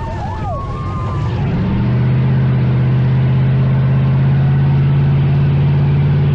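A car engine running close by. Its pitch rises slightly about a second and a half in, then holds steady at a fast idle.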